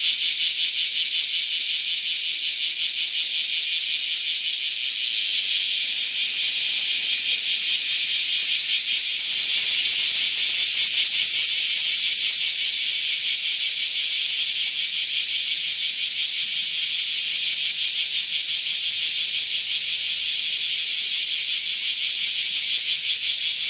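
Cicada song: a steady, high-pitched, rapidly pulsing buzz without a break, growing slightly louder about nine seconds in.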